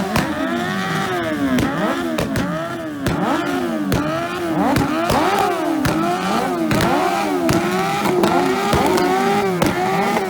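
Several motorcycle engines revved hard and repeatedly at standstill, their pitches rising and falling and overlapping one another.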